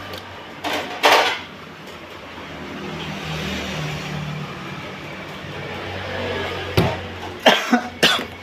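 Short, loud mouth and throat sounds from a person eating jengkol close to the microphone: two bursts about a second in, then a cluster of four near the end.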